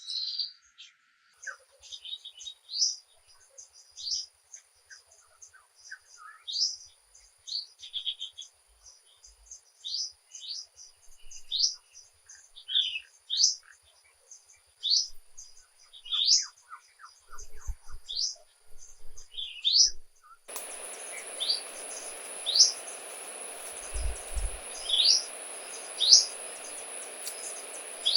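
A bird repeating short rising chirps, roughly one every second or so, over a thin steady high tone. About two-thirds of the way through, a steady hiss starts abruptly and continues under the chirps.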